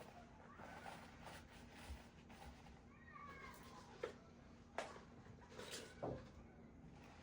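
A cat meowing once, faintly, about three seconds in, with a few light knocks from household handling around it.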